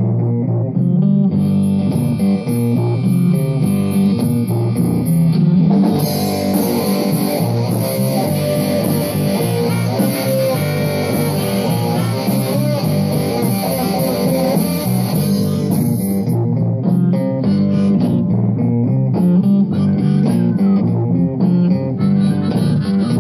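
Live rock band playing electric guitars and bass without vocals, the sound getting brighter and busier from about six seconds in until about sixteen seconds.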